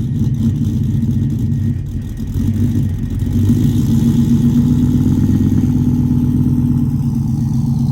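Cammed 5.3-litre V8 of a GMC Sierra pickup running steadily through its exhaust at or just above idle, getting a little louder about three seconds in.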